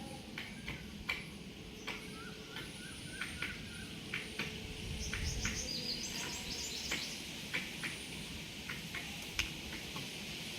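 Indian peafowl pecking grain: irregular sharp taps, about one or two a second, with small birds chirping in the background and a quick run of high chirps about five seconds in.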